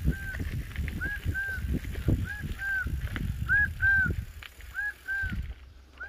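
A bird calling a repeated pair of short, arched, whistled notes, about one pair every second, over a low rumble that stops about five and a half seconds in.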